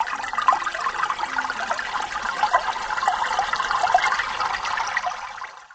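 Stream water babbling and trickling steadily, fading out near the end.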